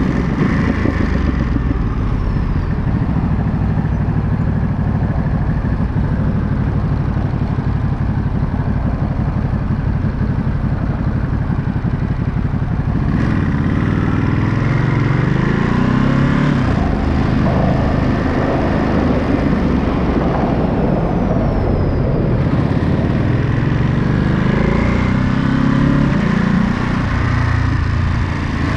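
Ducati Monster 937 motorcycle's L-twin engine running on the road, the revs climbing twice as it accelerates, around the middle and again near the end.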